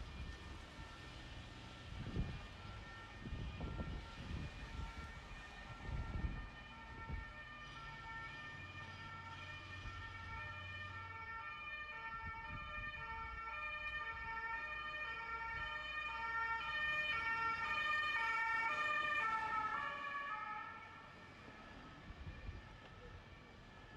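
Two-tone emergency-vehicle siren alternating between a high and a low note. It grows steadily louder as it approaches, then drops away about twenty seconds in. There are several low thumps in the first few seconds.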